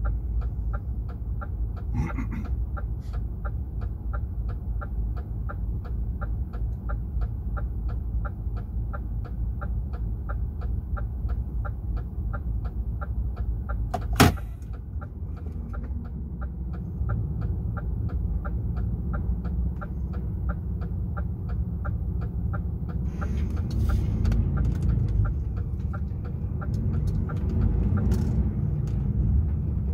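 DAF XF 480 truck's diesel engine running, heard inside the cab, with a fast, even ticking running over it. One sharp loud click comes about halfway through, and the engine grows louder after that.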